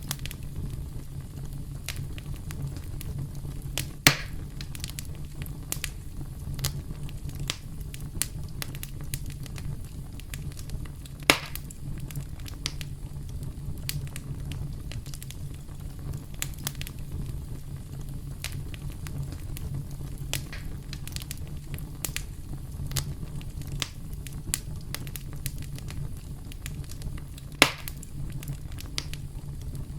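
Campfire burning: a steady low rumble of flames with constant scattered crackles and snaps from the wood, three of them sharp loud pops about 4, 11 and 27 seconds in.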